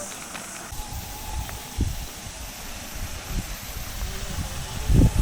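Steady high-pitched shrilling of a cicada chorus behind a low, gusty rumble that comes in about a second in and swells to a loud bump near the end.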